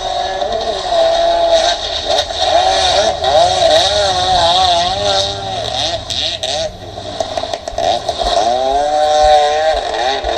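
Jet ski engine running hard, its pitch wavering rapidly up and down with the throttle, over a steady hiss.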